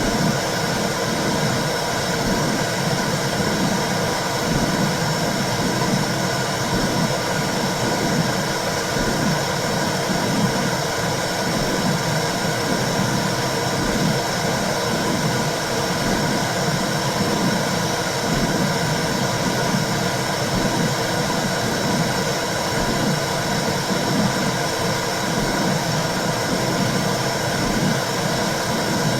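Womb sound for soothing babies: a steady, dense whooshing noise with a low, uneven pulsing underneath.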